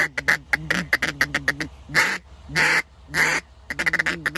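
Reed duck call taken out of a dog-toy duck, blown in a quick run of short quacks, then a few longer drawn-out quacks, then another quick run near the end.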